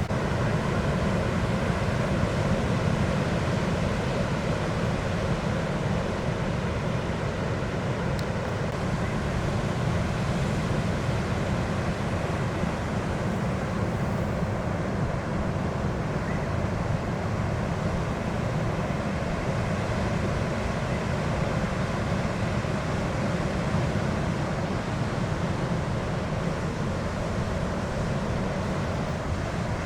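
Steady low rumble of wind on the microphone mixed with ocean surf, starting at a cut and holding even throughout.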